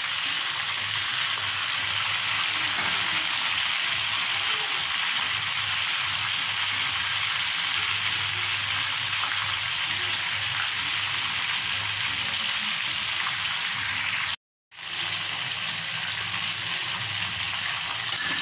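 Raw beef seekh kebabs frying in hot oil in a pan: a steady sizzle that cuts out for a moment about fourteen seconds in.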